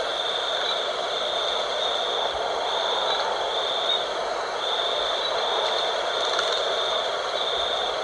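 Night-time wind blowing steadily, with a high, thin trill that sounds in repeated pulses about a second long.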